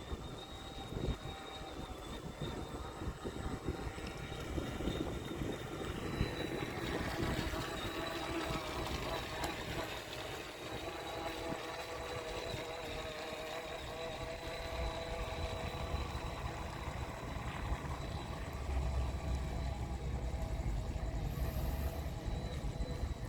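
Electric drive motors of a radio-controlled model Tyne-class lifeboat running, a steady high whine with lower tones beneath, over a background hiss. A low rumble comes in near the end.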